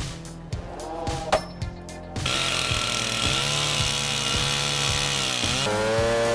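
Music with a steady beat, then about two seconds in a chainsaw starts running at full throttle over it. Near the end its pitch dips briefly and revs straight back up.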